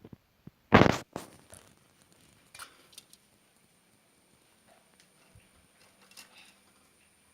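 Pet lovebirds in a cage: one loud, harsh scratchy burst about a second in, then scattered light clicks and taps as the birds move about.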